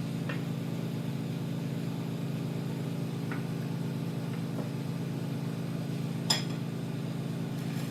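Steady low mechanical hum, like a blower or fan motor running in a neon bending shop. A single sharp glass clink comes about six seconds in, with fainter ticks earlier.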